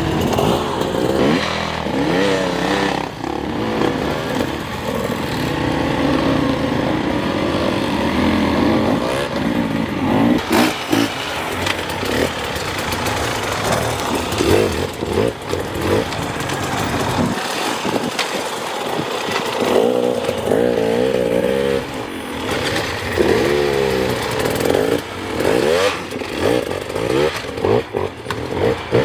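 Hard enduro dirt bike engines revving up and dropping back again and again, their pitch swinging rapidly up and down.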